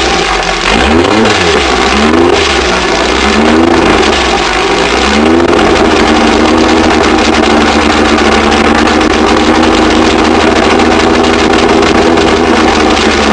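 Freshly rebuilt 2332 cc air-cooled Volkswagen flat-four drag engine running on its first fire-up: revved up and down in repeated blips for about the first five seconds, then held at a steady speed.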